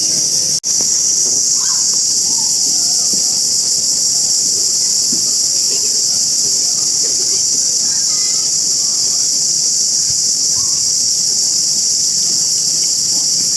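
Loud, steady insect chorus, a high-pitched shrill drone that never lets up, with a momentary break about half a second in. Faint voices sound in the background.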